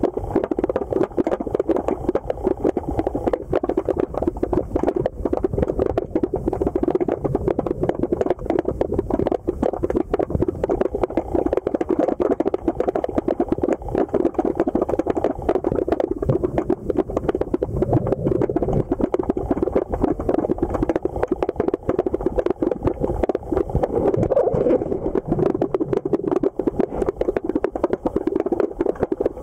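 A rapid, continuous knocking in a river, like rocks rolling and knocking together on the bottom. It is a dense run of clicks with no pause, and its source is unidentified; the recordist says it is not bubbles.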